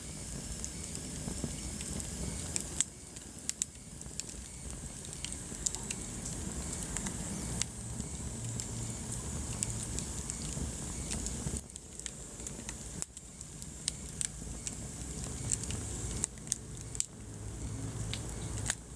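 Wood fire burning in a fireplace: a steady low rumble with frequent irregular crackles and a few louder sharp pops.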